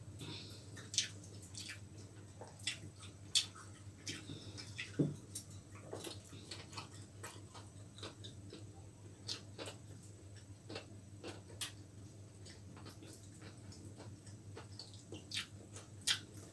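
Close-up eating sounds of people eating with their hands: chewing and crunching, with scattered sharp clicks and smacks, over a low steady hum.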